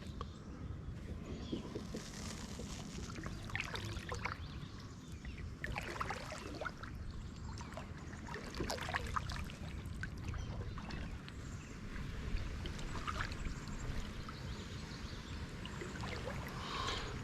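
Kayak paddle strokes: the blade dipping and water dripping and trickling off it at irregular intervals a few seconds apart, over a steady low rumble.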